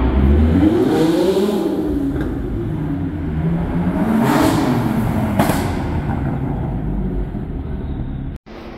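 Sports-car engines revving as the cars pull through an underground car park: the pitch climbs and falls back about a second in, as an Audi R8 passes, and again about four seconds in, as a BMW M4 passes. The sound drops out for a moment near the end.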